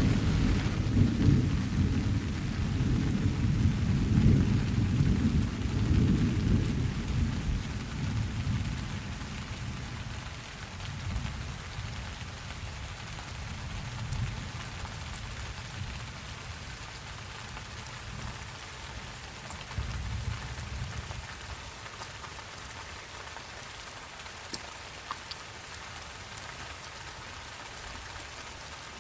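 Steady rain hissing, with a long roll of thunder at the start that fades away over about eight seconds, followed by a few fainter distant rumbles.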